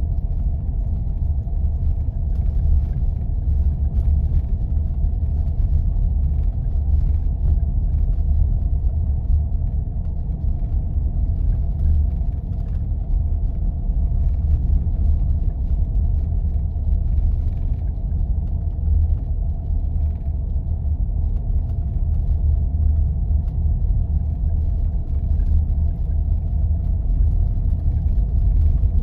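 Jeep driving on snow-covered back roads: a steady low rumble of engine and tyres, with a faint steady hum above it and light scattered ticks.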